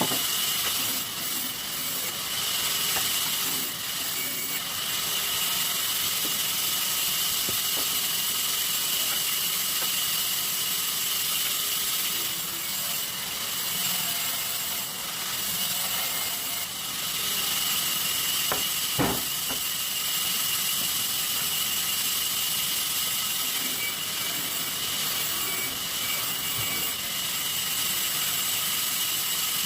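Sawmill machinery running steadily: a constant hissing noise with a high whine, and one sharp knock a little past the middle.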